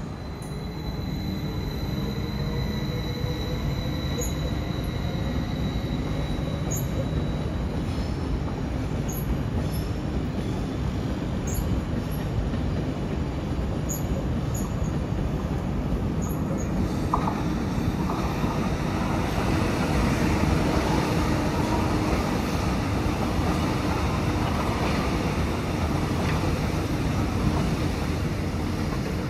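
A train running on the station tracks: a steady rumble of wheels and motors with a few steady tones. A high thin whine fades out after about eight seconds, and the noise grows fuller and slightly louder from a little past halfway.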